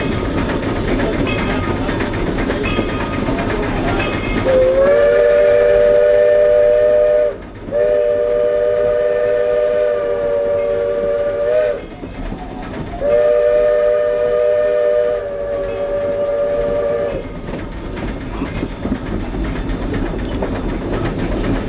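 Chime steam whistle of a 2-4-4-2 Mallet steam locomotive blowing three long blasts, each a steady chord of several notes, over the continuous rumble of the moving train.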